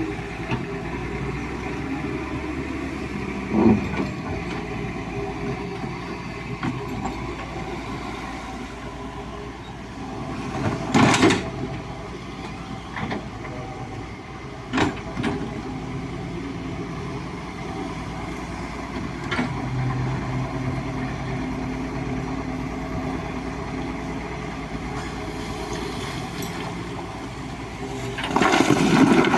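Diesel engine of a hydraulic excavator running steadily while it digs gravel, with several sharp knocks and clanks, the loudest about eleven seconds in and near the end.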